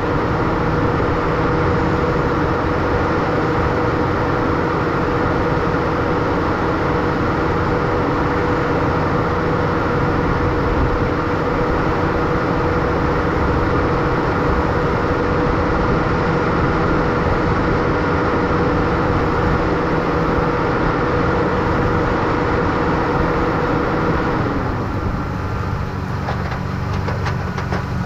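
Holden VT V6 standing at idle, a steady running hum with a constant whine over it, picked up close to the front bumper. About 24 seconds in, the whine winds down and the sound drops a little, and a few light knocks follow near the end.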